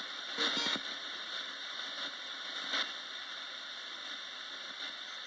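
Roberts radio used as a ghost box, giving a steady static hiss with two short louder blips, about half a second in and near the three-second mark.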